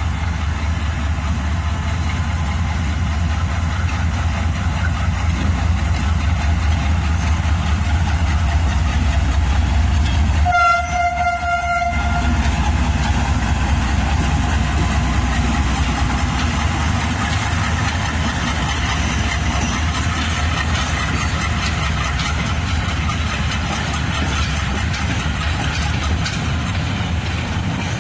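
Diesel-electric AGE-30 locomotive hauling a freight train of empty wagons, its engine giving a steady low rumble, with one short horn blast about ten seconds in.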